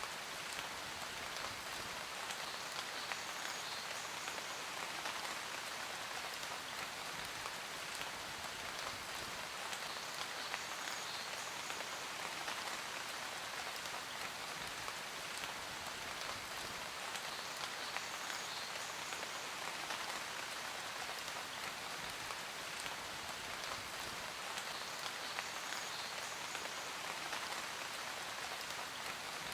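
Steady rain falling, an even hiss with a dense patter of fine individual drops.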